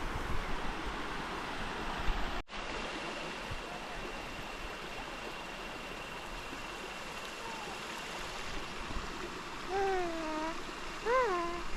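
Steady rush of a jungle stream and waterfall, with a brief dropout about two and a half seconds in; near the end, a few short calls that rise and fall in pitch.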